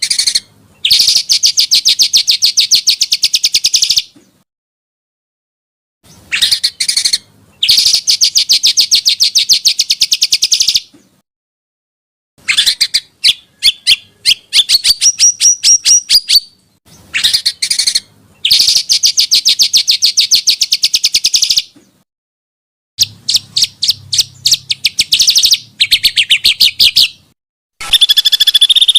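Small songbirds singing, edited as a masteran track. The phrases are fast, harsh rattling trills and long rolls, each two to four seconds long, with abrupt silent gaps between them.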